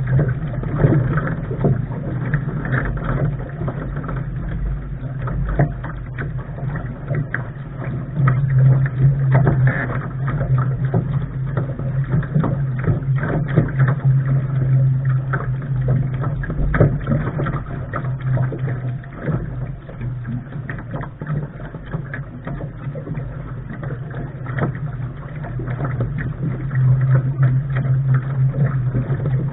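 Lark sailing dinghy under way: water slapping and splashing against the bow over a steady low rumble of wind on the microphone, with many small irregular knocks.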